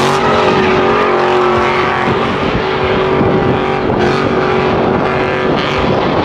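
Car engine running loud and sustained at a steady high speed, its pitch holding nearly level.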